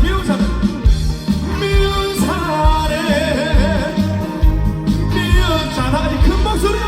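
Live upbeat trot song: a male singer with band accompaniment over a steady, heavy drum beat.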